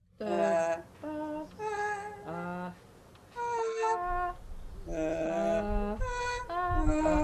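Wordless improvised female vocalising: a string of short held and sliding sung notes with brief gaps between them. A low rumble joins underneath from about halfway.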